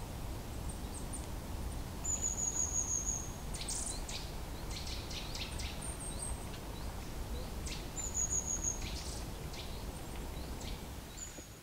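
Small birds calling: two thin, high whistles that fall slightly in pitch, about two seconds in and again about eight seconds in, among scattered short high chirps and ticks, over a steady low background rumble.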